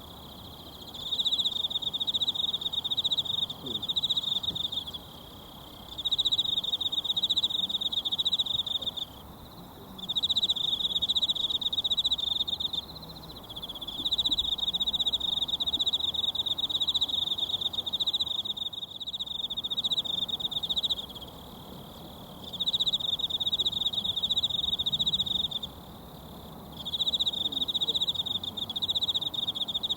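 An insect trilling at a high pitch in long phrases of a few seconds each, with short pauses of about a second between them, over the faint rush of a mountain stream.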